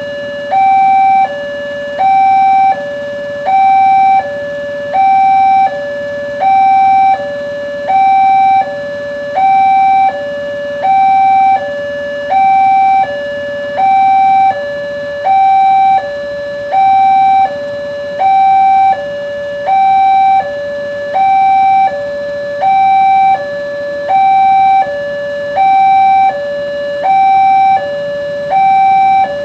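Indonesian railroad level-crossing warning alarm sounding a steady two-tone cycle, a higher tone then a lower one, repeating about every one and a half seconds. It signals that the barriers are down and a train is approaching.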